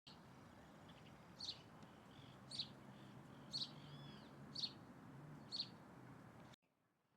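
A bird repeating a short, high chirp about once a second, five times, with a faint arched note among them, over a low steady background hum. The sound cuts off abruptly near the end.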